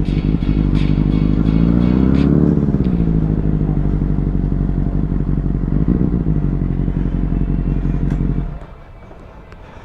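Benelli 600i inline-four motorcycle engine running while riding, its pitch rising and falling as it is revved about two seconds in and again briefly near six seconds. The engine sound cuts off suddenly about eight and a half seconds in.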